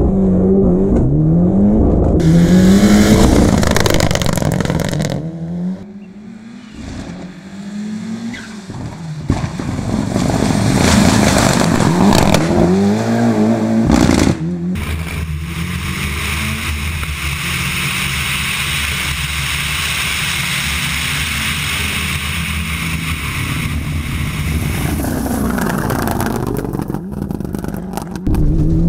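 Turbocharged 2.3-litre stroked 4G63 four-cylinder of a Mitsubishi Lancer Evolution VI hillclimb car at full throttle, its pitch climbing through the revs and dropping at each gear change. The sound is heard partly from inside the cabin and partly from the roadside as the car drives past, with a quieter spell a few seconds in and an abrupt cut about halfway.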